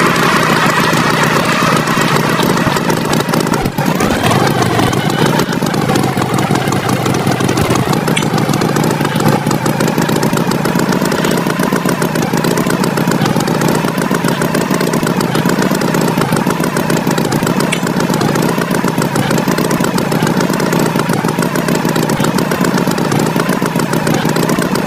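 Engine running steadily at a constant pitch, a tractor engine sound effect.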